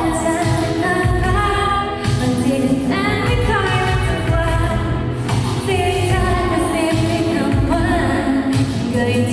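Live pop song with female vocals sung over a loud backing track, heard through a hall's sound system.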